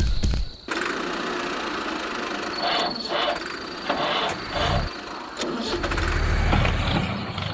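An engine running, with a deep rumble at the start and again near the end, and a loud, even noise in between.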